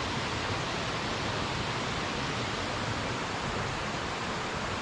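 Waterfall's steady rush of falling water, an even hiss-like roar with no breaks.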